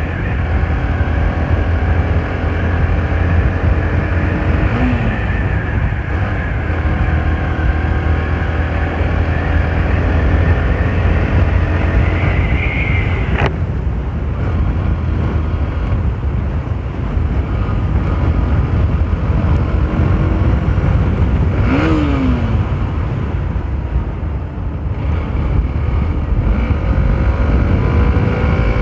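Hero Xtreme 125R's 125 cc single-cylinder engine and exhaust running under way in power mode, the engine note shifting with throttle. Two brief sharp clicks, near the middle and about three quarters through.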